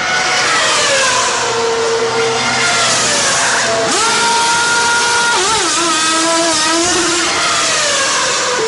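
Race car engines running at speed over a steady hiss. Their pitch slides down in the first couple of seconds, jumps up and holds about four seconds in, then wavers and falls again.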